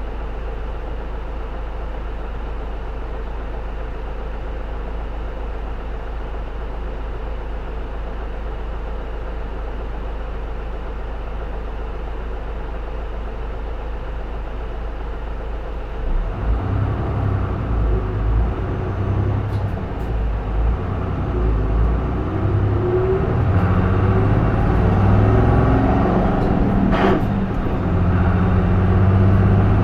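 Isuzu Erga (J-Bus PKG-LV234L2) route bus's inline-six diesel heard from inside the cabin. It idles with a steady low hum, then about halfway through the bus pulls away and the engine revs up hard under load, its note rising as it accelerates.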